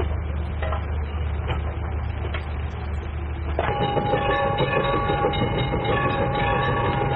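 A train running: a low rumble with a few knocks. About halfway, a steady high-pitched sound of several notes comes in suddenly over a fast clatter.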